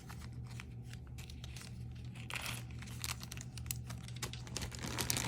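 Small plastic bags crinkling and rustling while being handled, with scattered light clicks and taps, over a steady low hum.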